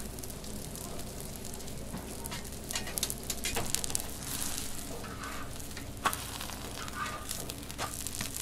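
Food frying in hot oil, sizzling steadily with scattered crackles and a sharp click about six seconds in.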